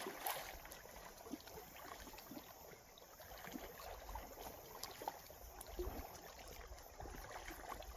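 Faint water lapping and trickling, with scattered small ticks and splashes.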